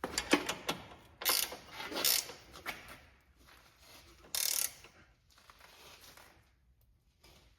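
A 3/8-drive ratchet turning a crow's foot wrench on a steering gearbox bolt nut, clicking in several short bursts over the first few seconds, then only a few faint ticks. The nut is being tightened by hand to 'good and tight' rather than to a torque figure.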